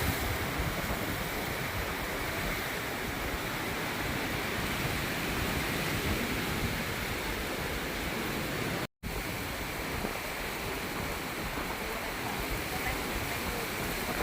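Strong storm wind rushing and buffeting the microphone, a steady noise with uneven low rumbles. It drops out for a split second about nine seconds in.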